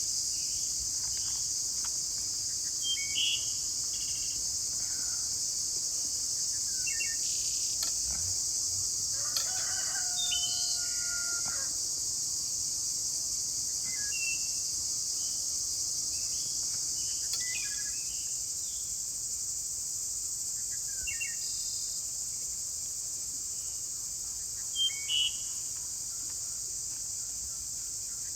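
Steady high-pitched insect chorus with scattered bird chirps, and a rooster crowing once about ten seconds in.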